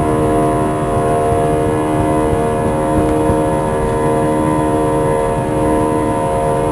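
Airbus A320 jet engines heard inside the passenger cabin: a loud, steady drone of several held tones over a low rumble.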